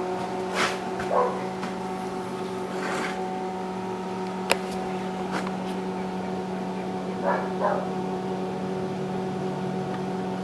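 A steady motor hum holding one pitch, with a few sharp clicks over it.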